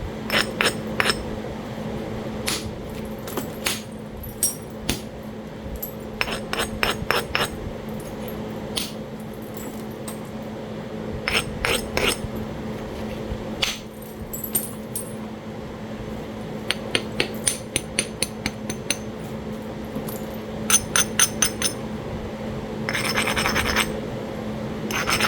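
Flintknapping on Talahata quartzite: sharp, ringing clicks of a knapping tool striking and tapping the stone's edge, some single and some in quick runs of taps. Near the end comes a short scraping of the edge being abraded.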